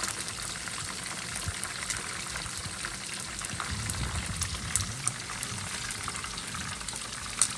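Marinated chicken feet deep-frying in hot oil: a steady sizzle full of small crackling pops, with a couple of louder spits, one near the end.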